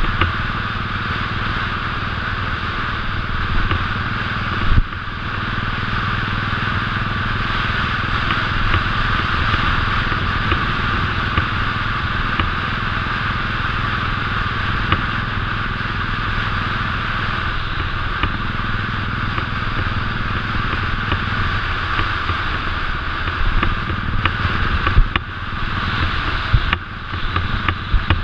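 Royal Enfield 500cc single-cylinder motorcycle engine running steadily at a cruise, with constant road and wind noise. There is one sharp knock about five seconds in, and the sound becomes uneven near the end.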